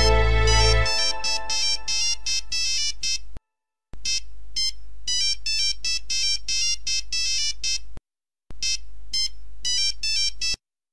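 Mobile phone ringtone: a quick melody of high electronic notes that plays three times with short pauses between, signalling an incoming call. Background music ends about a second in.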